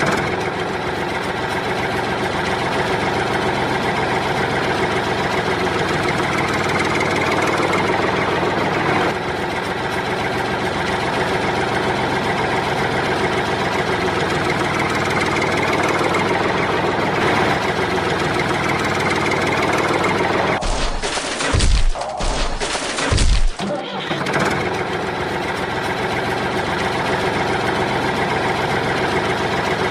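Engine running steadily, as of a JCB digger, broken by a few heavy low thumps a little past twenty seconds in.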